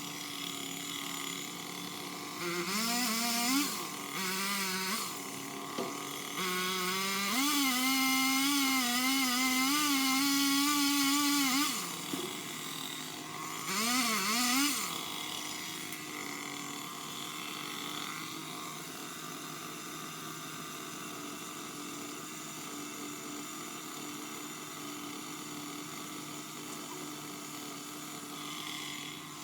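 Craftsman power limb cutter running and revving up as it cuts limbs: three runs at high speed, a short one about three seconds in, a long one from about seven to twelve seconds, and a short one around fourteen seconds. Its pitch wavers as the chain bites into the wood. Between and after the runs there is a steady lower hum.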